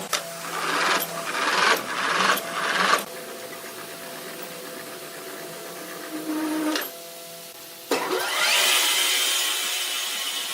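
Sawmill machinery: three short surges of a saw cutting wood in the first three seconds, then a machine running steadily. Near the end a sharp start and a rising whine lead into a loud, steady hiss.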